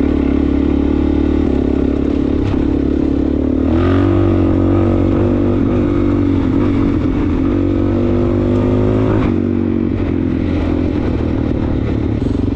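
Suzuki DRZ400S single-cylinder four-stroke engine running on the trail. Its pitch climbs about four seconds in as the throttle opens, holds, and drops back about nine seconds in.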